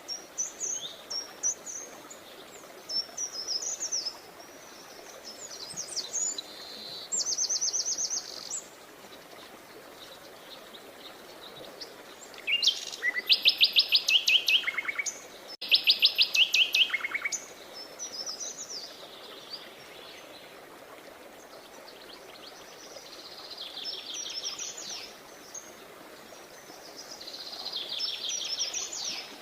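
Several songbirds singing and chirping in a mix of short high phrases over a faint steady hiss. The loudest are two fast trills of evenly spaced notes about halfway through.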